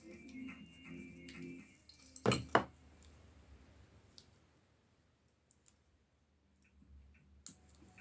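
Two sharp clicks about a third of a second apart, small hard parts or tools being handled on a workbench, then a few faint scattered ticks and one more click near the end. Faint background music in the first two seconds.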